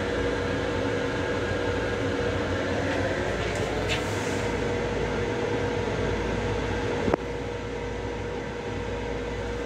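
Steady low rumble and hum of an LIRR M7 electric railcar heard from inside its small restroom, with a steady tone running under it. A single sharp click comes about seven seconds in, after which the noise is a little quieter.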